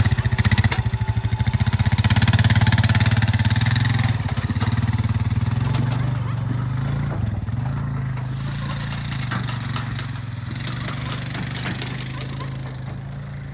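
A small vehicle's engine running at a steady pace as it drives off, growing gradually fainter.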